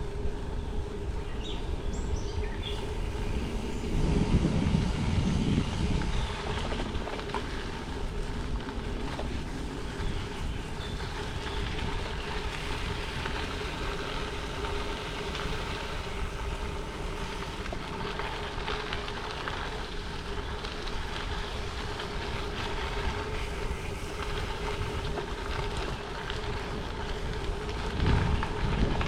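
Bicycle tyres rolling steadily on a gravel trail, with a constant hum under the noise and gusts of wind buffeting the microphone a few seconds in and again near the end.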